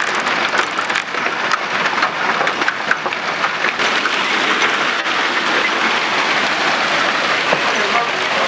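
Hail and rain falling hard: a dense, steady hiss of rain with many small sharp clicks of hailstones striking, thickest in the first few seconds.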